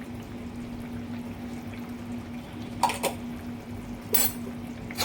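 Metal spoon clinking against a cooking pan: two quick knocks about three seconds in and another about a second later, over a steady low hum.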